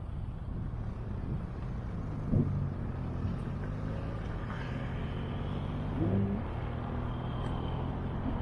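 Road traffic on a city square: a motor vehicle's engine running over a steady low street rumble, its note rising sharply twice as it accelerates, about two and six seconds in.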